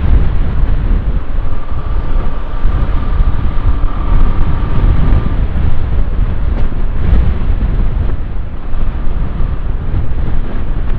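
Wind buffeting the microphone of a moving motorcycle, with the rumble of the ride underneath. A faint, thin, steady whine sits over it from about a second and a half in until about five seconds in.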